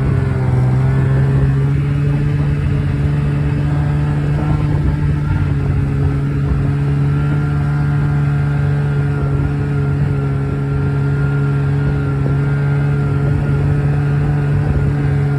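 Snowmobile engine running at a steady, nearly unchanging pitch while riding along the trail.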